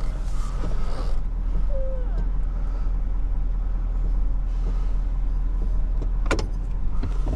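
Tow truck engine running steadily, with a sharp click about six seconds in.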